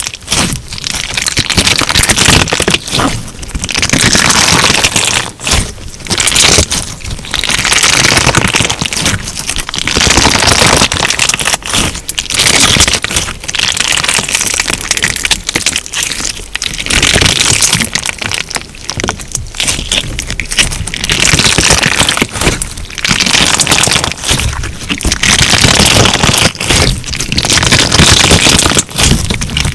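Crunchy clear slime being squeezed and pressed by hand: a dense run of loud crunches and crackles, coming in repeated pushes of a second or two with short breaks between.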